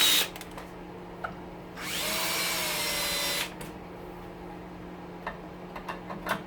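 Cordless drill/driver spinning up and running for about a second and a half to back out a screw from an oven door handle. A few light metal clicks of handling come before and after it.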